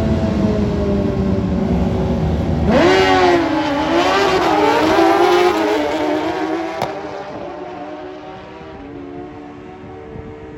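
A drag racing motorcycle engine runs loud on the strip. About three seconds in, its pitch jumps up as the bike launches, then rises and dips through the gear changes as it accelerates away and fades into the distance.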